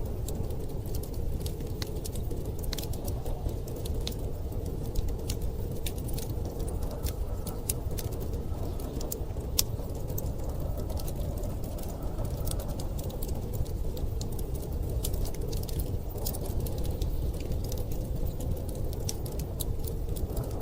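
Wood fire crackling in a fireplace, with frequent sharp pops and snaps, over a steady low rush of storm wind.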